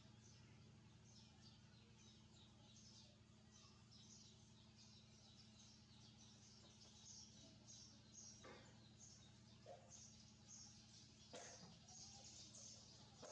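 Young birds about 26 days old giving many faint, quick, high chirps, over a steady low hum, with two soft knocks in the second half.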